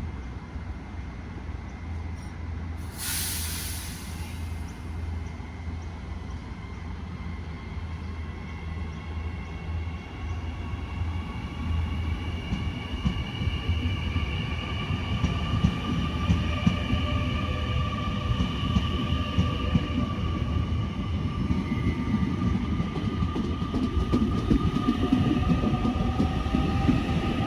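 Train running with a steady low rumble. A brief hiss comes about three seconds in. About halfway through the sound grows louder and high drawn-out wheel squeal or whine rises over the rumble.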